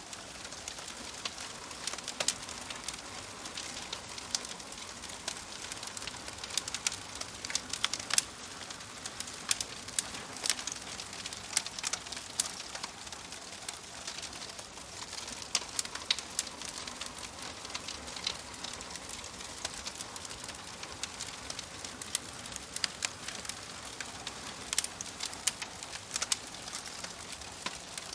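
Wood fire crackling in a fireplace: a steady soft hiss with many small irregular pops and snaps, a few of them sharper and louder.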